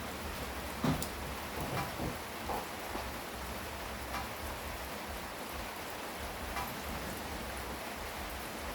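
Steady rain falling, with scattered louder drops ticking now and then.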